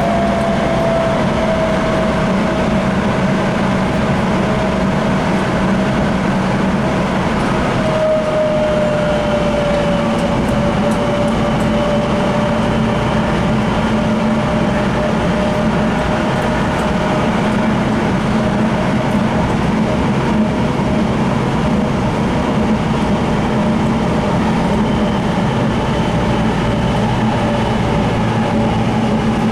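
Sound Transit Link light rail train running steadily, heard from inside the car: a continuous rumble with a hum and a thin whine that slowly falls in pitch.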